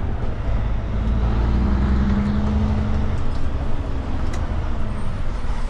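Kenworth K200 truck's Cummins diesel engine running under way, a steady low drone with an engine tone that climbs slightly and then fades about three seconds in.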